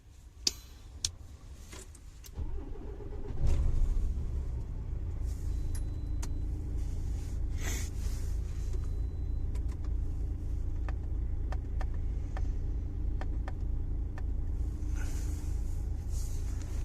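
Two sharp clicks, then the truck's diesel engine starts about three seconds in and settles into a steady idle, left running to warm up.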